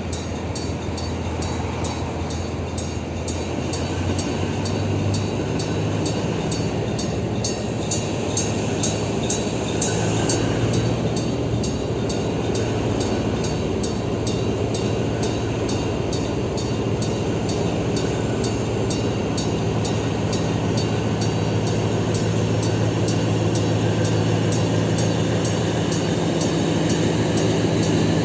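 TCDD DE 24000-class diesel-electric locomotive's engine working hard in notch 8 while hauling a container freight train: a steady low drone that grows louder toward the end, with a fast, even ticking over it.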